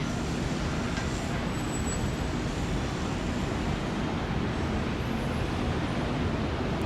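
Steady road traffic noise: an even wash of vehicle sound with no single event standing out.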